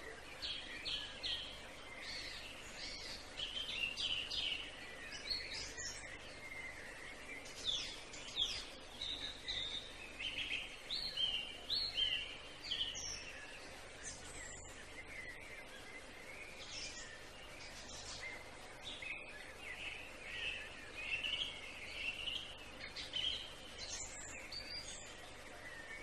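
Songbirds singing, a busy mix of quick chirps and short whistled notes from more than one bird, over a steady background hiss.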